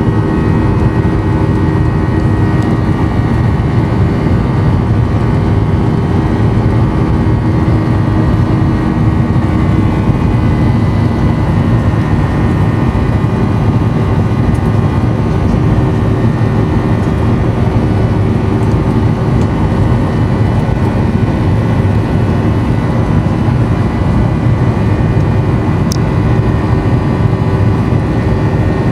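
Steady jet engine noise inside the cabin of a Boeing 737-800: a constant deep rumble with a few steady humming and whining tones over it.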